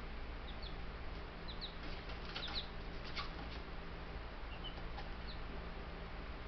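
Buff Brahma chicks peeping now and then in short high notes, with a few brief scratchy rustles in the middle, over a steady low hum.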